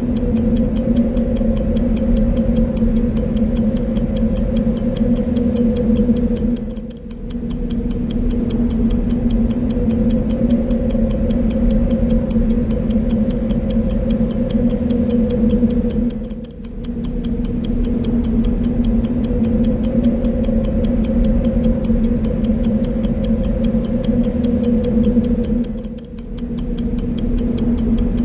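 Clock ticking at a steady, even rate over a continuous wind sound. The whole mix dips briefly about every nine and a half seconds, three times.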